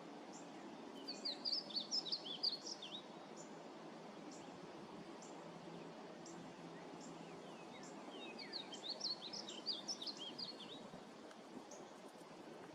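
Painted bunting singing: two bursts of a quick warble of short, high, rising and falling notes, one soon after the start and another past the middle, over a steady background hiss.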